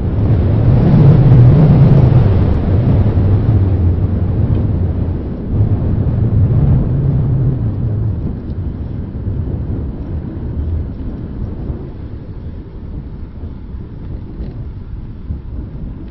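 Wind buffeting the microphone of a handheld Zoom Q3 recorder on a moving bicycle: a loud low rumble, strongest in the first few seconds and again about six seconds in, easing off toward the end.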